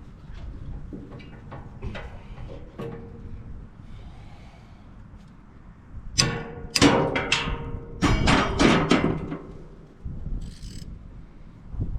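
Hand tools working on the steel blade assembly of a wood chipper: light metal clicks and knocks, then from about six seconds in a run of loud metallic clanks and scrapes with a ringing tone, lasting a few seconds.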